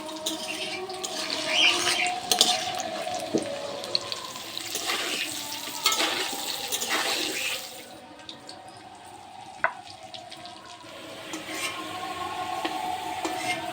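Water pouring and splashing, with scattered clicks of utensils. It drops away for a few seconds past the middle, then starts again near the end.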